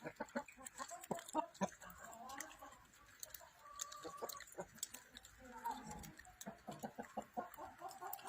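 Chickens clucking, short pitched calls scattered through, with many brief sharp clicks between them.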